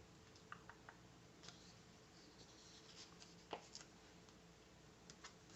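Near silence with faint, scattered light ticks and small rustles of paper being handled: planner stickers being peeled and pressed onto a planner page.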